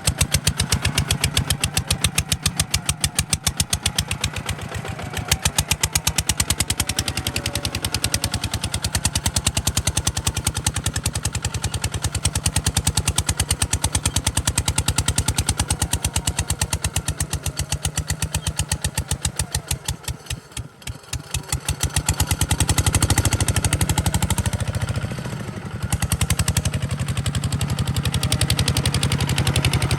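Kubota RT140 DI single-cylinder diesel engine running with a fast, steady chugging beat. About twenty seconds in, it slows and quietens for a moment, then picks back up.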